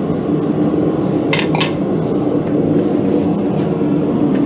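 Two light metallic clinks of steel against steel, about a second and a half in, over a steady low rumble of the forge shop.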